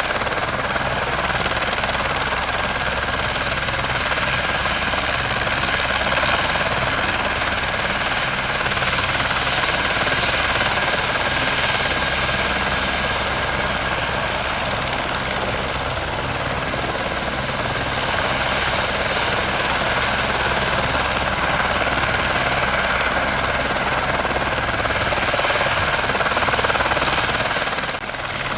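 Turbine helicopter in flight: steady rotor and engine noise with a constant high turbine whine. Near the end it briefly dips and the whine comes back slightly higher.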